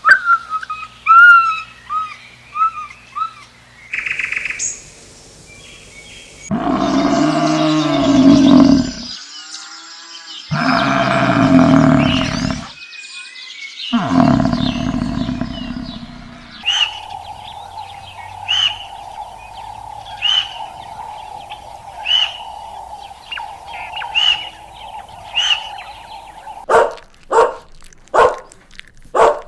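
A run of different animal calls: short chirps, then long loud roars, then a steady hum with regular chirping, ending in a quick series of barks.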